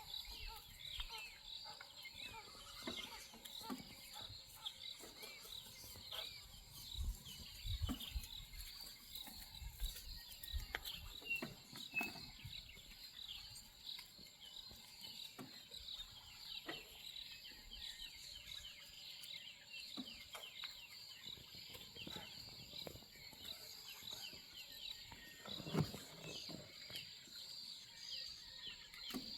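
Dense chorus of many small, high, chirping animal calls overlapping continuously, with scattered low thumps and rumbles, the loudest near the end.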